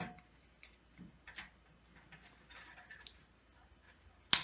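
Light clicks and scraping of brittle plastic being worked at by hand on a fluorescent light fixture, then one sharp, loud snap near the end as the plastic part pops off.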